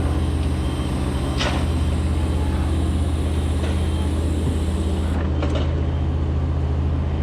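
Large engine idling steadily with a constant low hum, with a few faint clicks over it.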